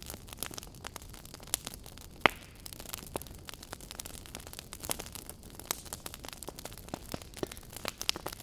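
Fire in a fireplace crackling, with irregular sharp pops and snaps over a low steady hiss; one louder pop about two seconds in.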